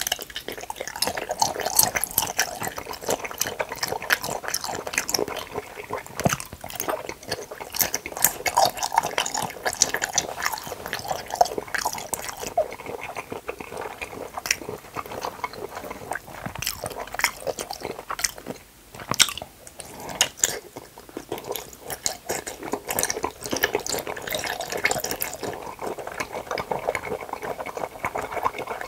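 Close-miked biting and chewing of cup jelly: a steady run of small wet mouth clicks and squishes, with a brief lull a little past the middle.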